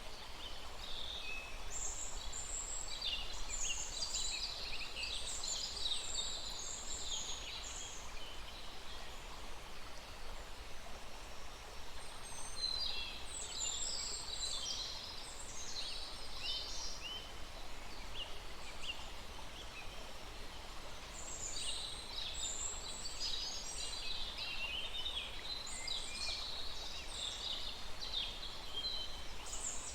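Several birds chattering and calling rapidly in three bouts, over a steady rush of a small forest stream.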